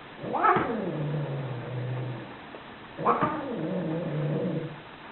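Angry cat yowling twice, each call opening with a sharp, high outburst and trailing off into a long, low, falling growl.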